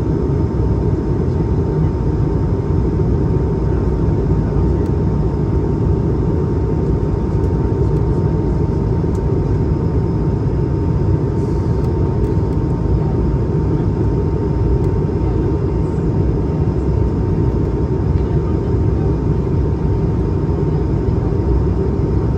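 Airbus A220-300 cabin noise in flight: the steady roar of its Pratt & Whitney PW1521G geared turbofan engines and the airflow, heard from inside the cabin, with a thin steady hum running through it.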